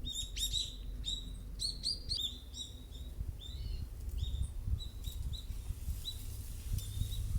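Small birds chirping: a quick run of short, high chirps that thins out after a couple of seconds into scattered single chirps, over a low steady background rumble.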